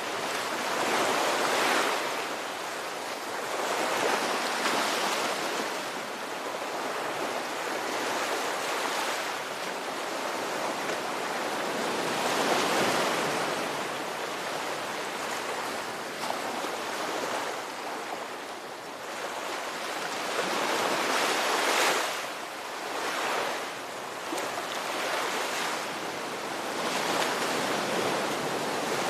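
Ocean waves breaking and washing on a shore, a continuous surf that swells and ebbs every few seconds, with the strongest surges about 2, 12 and 22 seconds in.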